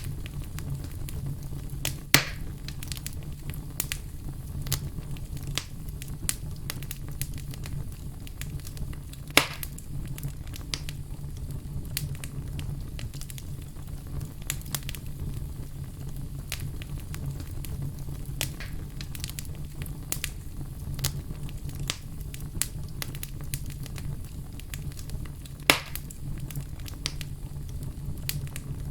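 Wood fire crackling steadily: many small snaps over a constant low rumble, with three louder pops, one a couple of seconds in, one near the middle and one near the end.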